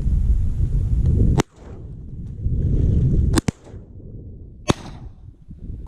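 Four shotgun shots from duck hunters: one about a second and a half in, two in quick succession about three and a half seconds in, and one more a second later, over a steady low rumble.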